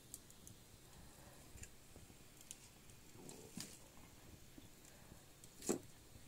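Faint sparse crackles and clicks from a wood fire in a kitchen hearth, with one sharper knock near the end.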